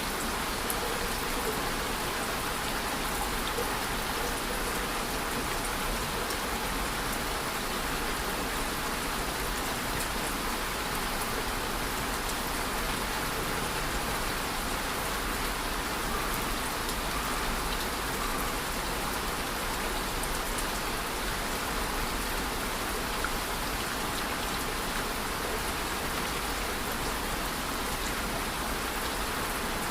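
Steady rain falling on a surface, an even hiss of many drops with scattered tiny patters.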